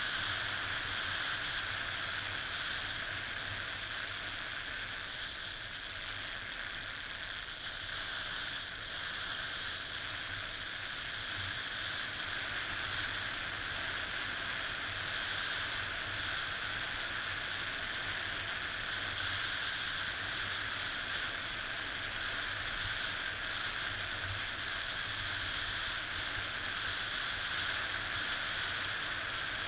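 Steady wind and road noise of a motorcycle ride, recorded by a mounted action camera's built-in microphone. It is an even hiss with no clear engine note.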